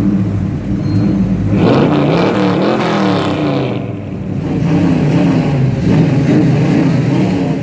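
Muscle car engine running loud, revved up and down several times about one and a half seconds in, then dropping back to an uneven idle with small blips.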